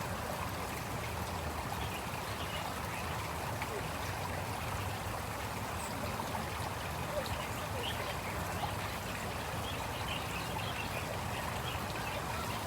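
Steady trickle and rush of running water at a park pond, even throughout.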